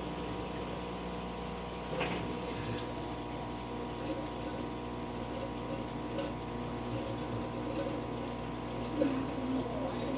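Aquarium pump humming steadily with water running through it, with a single light knock about two seconds in.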